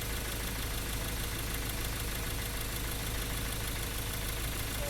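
Ford Ranger 2.2 diesel engine running steadily at idle with the engine noise and misfire of its complaint. The mechanic puts this down to the broken-off tip of cylinder 3's glow plug, which has fallen into the engine.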